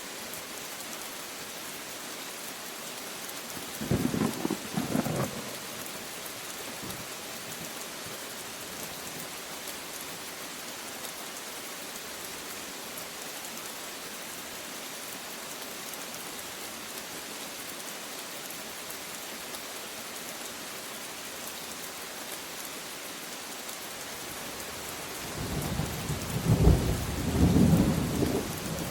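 Steady rain falling, with a short rumble of thunder about four seconds in and a longer, louder roll of thunder building near the end.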